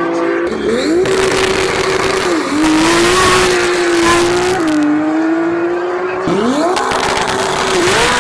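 Race car engine running hard at high revs. Its note sweeps up sharply from low twice and dips briefly a few times in between.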